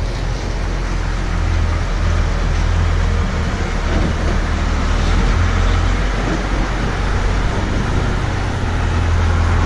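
A truck's engine running steadily with a low hum as the truck, loaded with corn, is driven off to be parked.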